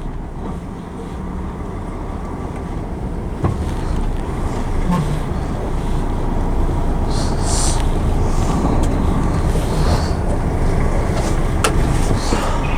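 Articulated lorry's diesel engine running at low speed, heard from inside the cab; the rumble slowly grows louder, with a few short hisses and a couple of sharp clicks.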